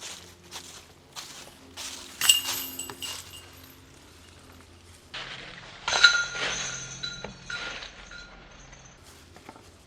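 Disc golf basket chains rattling and ringing as discs strike them, twice: about two seconds in and again about six seconds in, each ring dying away over a second or two. A few soft footsteps come before the first strike.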